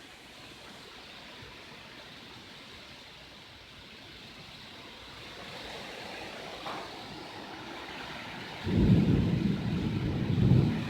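Rain falling steadily with a constant hiss that slowly grows louder. About nine seconds in, strong wind gusts set off a loud, uneven low rumble on the microphone.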